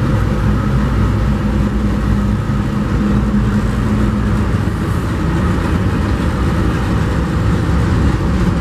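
CSX freight train passing close by: the steady rumble of wheels on the rails with the drone of the diesel locomotives, whose steady hum drops away about halfway through as they move off.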